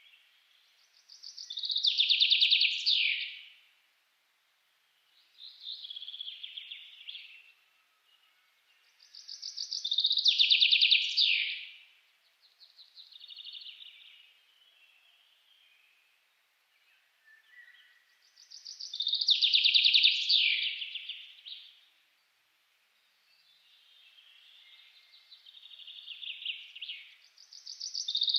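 A bird singing in long, fast trills, each lasting two to three seconds. Loud trills come about every nine seconds, with softer trills between them.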